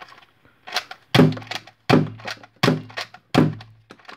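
Nerf Hammershot spring blaster with a 3D-printed seven-shot cylinder firing darts in quick succession: four sharp thunks of the plunger about three-quarters of a second apart, each preceded by a lighter click as the hammer is cocked and the cylinder turns.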